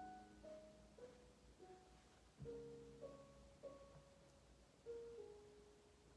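Quiet background piano music: a slow melody of single notes over held chords, the last note dying away near the end.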